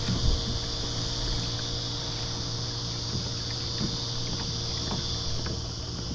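Steady low hum of a boat motor running, under a constant high-pitched insect buzz.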